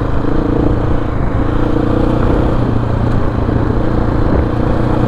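Motorcycle engine running at a steady pace while riding, a constant engine note under wind and road noise.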